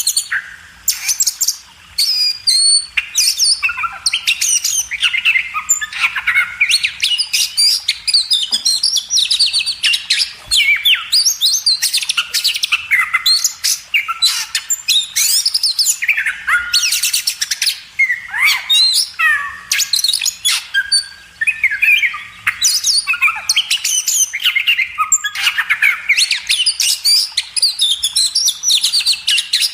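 Oriental magpie-robin (kacer) singing: a fast, unbroken run of varied whistles, chirps and sweeping notes.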